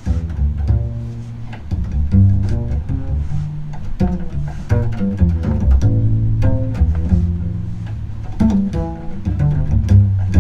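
Double bass strung with gut strings, played pizzicato: a slow solo melody of plucked, ringing low notes, with scattered faint clicks over it.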